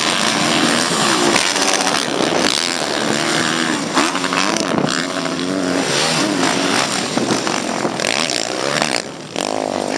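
Several motocross bikes racing, their engines revving up and down in overlapping rising and falling tones as the riders open and close the throttle.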